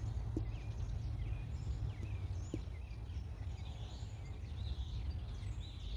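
Outdoor background noise: a steady low rumble with small birds chirping now and then, and a couple of faint ticks.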